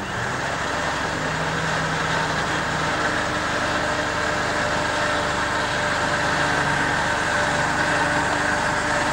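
Off-road 4x4 vehicle engine running steadily, heard as an even mechanical drone with hiss.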